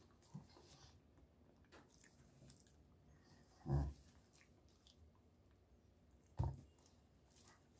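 A person chewing a bite of chicken sandwich, with quiet mouth sounds and two short, louder, low sounds about four and six and a half seconds in.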